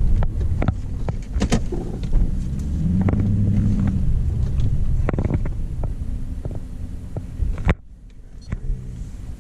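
5.7 L Hemi V8 with a muffler-delete exhaust running while the car is held on the brake at the start line; the revs swell briefly about three seconds in, and the sound drops off sharply near the end.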